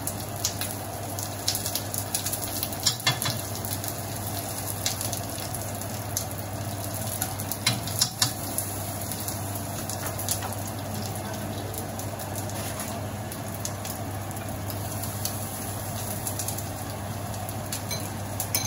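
Shallots and ginger sizzling steadily in oil in a wok over a low gas flame, with a few sharp clinks of a metal spoon and spatula.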